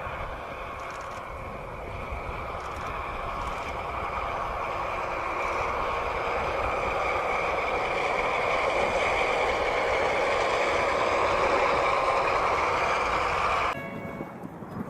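A heavy vehicle or machine running steadily and growing louder, cut off suddenly near the end.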